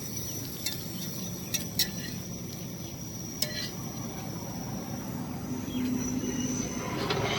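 Outdoor roadside ambience: a low, steady vehicle rumble that grows louder near the end, under a continuous high insect trill, with a few sharp clicks.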